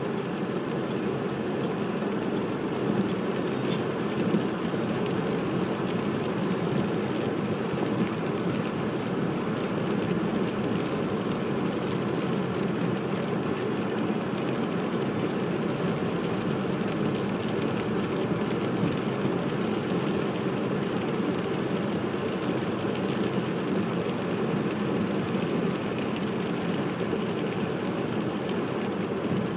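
Steady road and tyre noise of a car driving on a wet road.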